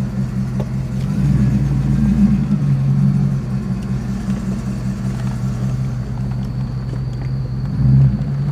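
Jeep Grand Cherokee's 5.2 Magnum V8 with Magnaflow dual exhaust running as the Jeep drives, heard from inside the cab with the windows down. The note swells for a moment about a second in and again near the end.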